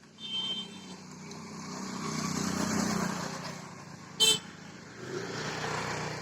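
Road traffic passing, with a short horn beep near the start and a brief, loud horn honk about four seconds in.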